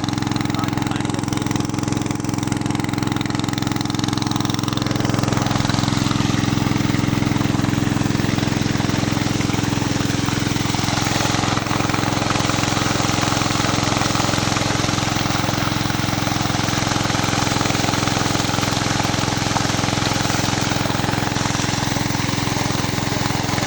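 Petrol engine running steadily at a constant speed, getting slightly louder about five seconds in.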